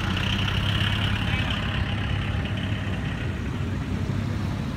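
Classic cars' engines running at low speed as they roll slowly past one after another, a steady low engine hum.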